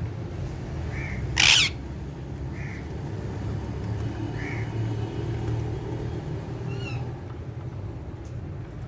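Alexandrine parakeets calling: one loud, short screech about a second and a half in, and a few softer short calls and chirps around it, over a steady low rumble.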